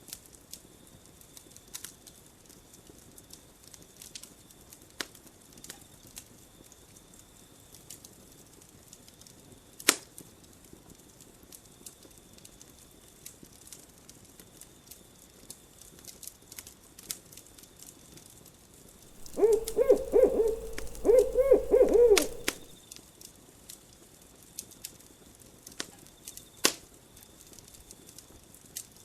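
Campfire wood crackling with scattered small pops and one sharper pop about ten seconds in, over a faint steady high tone. About nineteen seconds in, an owl hoots in two wavering phrases lasting about three seconds; this is the loudest sound.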